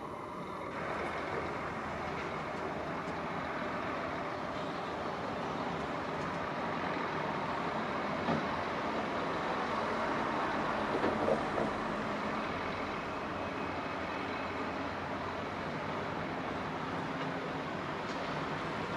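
Train rolling past, a steady rumble that swells slightly toward the middle, with a couple of brief knocks.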